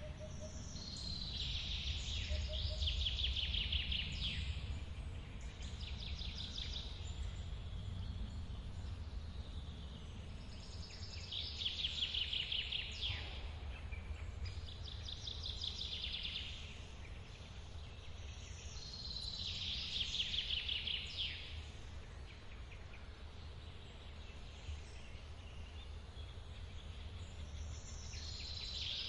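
A songbird repeats a short song every few seconds, a falling note running into a fast trill, over the steady low rush of a forest waterfall.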